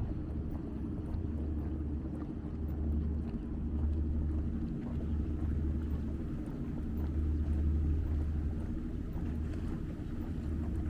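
Steady low engine rumble with a constant hum above it, swelling a little and easing off without stopping.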